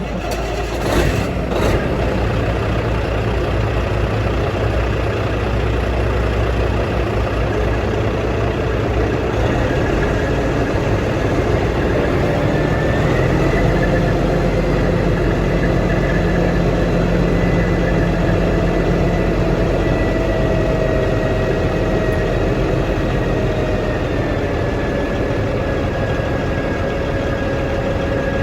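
Caterpillar dump truck's engine running steadily, with a couple of sharp knocks about a second in and a faint whine that drifts slightly in pitch.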